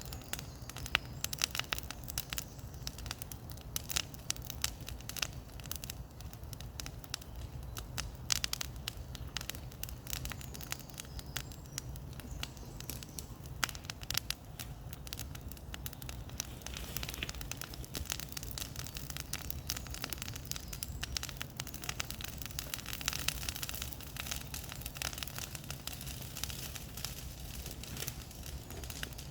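Bonfire of cleared brush and wood crackling, with frequent irregular sharp snaps and pops over a low steady rumble.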